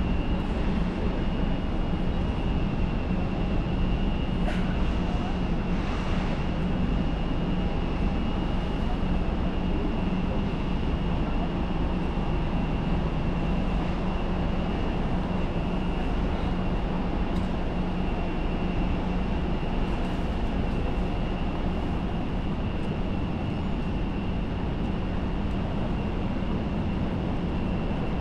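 Jet airliner's engines running steadily, a low hum under a thin constant high whine.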